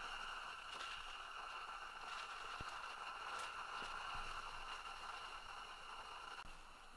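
Combustion space heater running: a steady rushing sound with a high, even whine, which drops away near the end.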